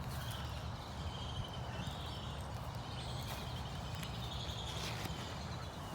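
Outdoor ambience: a steady low rumble of wind on the microphone, with faint, brief bird chirps now and then.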